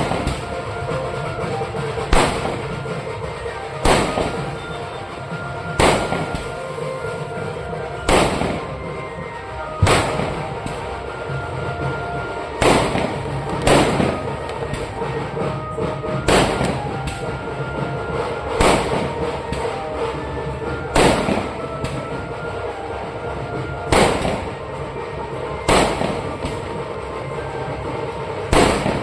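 Firecrackers going off one at a time: sharp single bangs about every two seconds, over a steady background noise.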